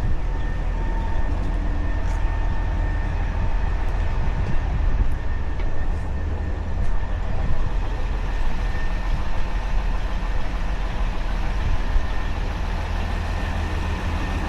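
Motor grader's diesel engine running steadily, a deep continuous hum with a faint steady whine above it.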